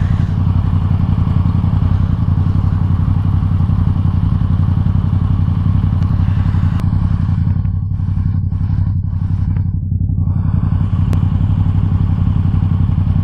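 Motorcycle engine running at a steady pitch, with a hiss over it that drops away for a few seconds about seven seconds in.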